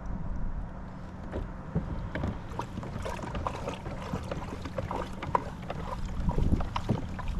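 Wind rumbling on the microphone over water lapping and trickling against a kayak hull, with many small irregular splashy ticks.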